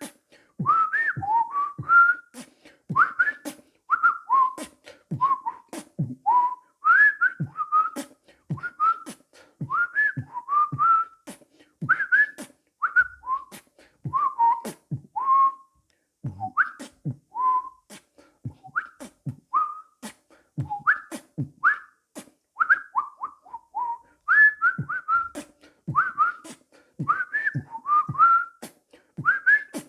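Birdboxing: a person whistling short bird-like chirps and slides over a beatboxed rhythm of mouth kick-drum thumps and clicking hi-hats, in a steady beat.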